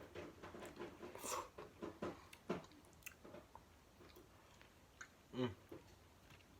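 A person chewing and biting food close to the microphone: quick, irregular mouth sounds that thin out after about three seconds.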